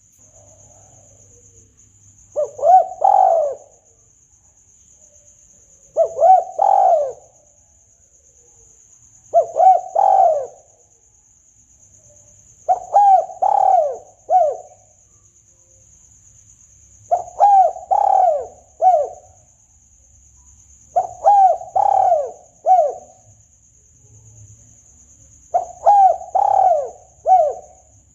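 Spotted dove (tekukur) cooing its lure call: a short phrase of three or four rising-and-falling coos, repeated about every three and a half to four seconds, eight times in all. The later phrases end with an extra short note.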